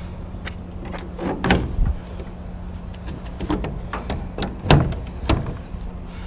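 Scattered knocks and clatters of scrap being picked up and loaded, the loudest about a second and a half in and again near five seconds, over a steady low hum.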